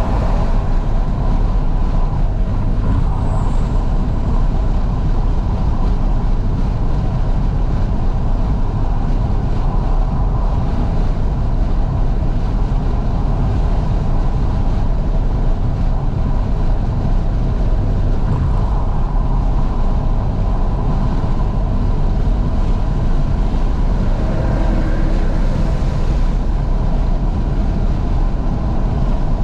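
Fiat 500S on the move with all its windows wide open, heard from inside the cabin: a loud, steady rumble of wind and road noise with the engine running under it.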